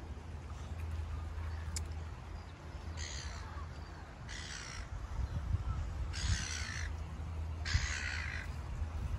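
A bird giving four harsh, drawn-out calls, the first about three seconds in and the rest following every second and a half or so, over a low rumble of wind on the microphone.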